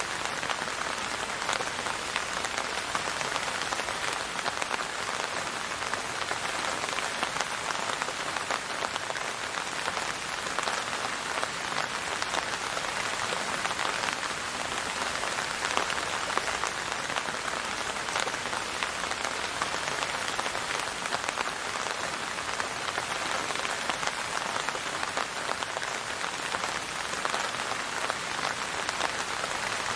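Steady rain falling on a surface: a dense, even patter of countless drops that never lets up.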